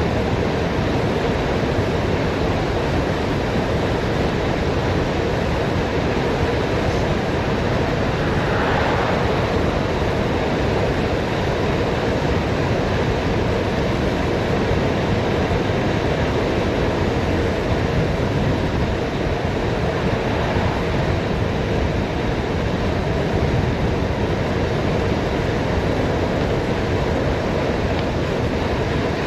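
Steady rushing wind noise on the microphone, with road noise underneath, from riding downhill at speed.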